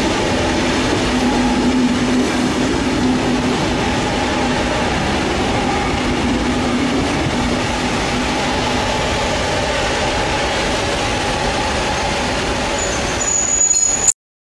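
Passenger train moving slowly along a station platform: a steady rumble and hum, with a brief high squeal near the end. The sound then cuts off abruptly.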